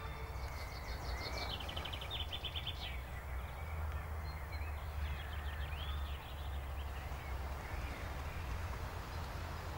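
Outdoor background of birds calling: a rapid chattering run of short calls about a second and a half in, then scattered chirps, over a steady low rumble.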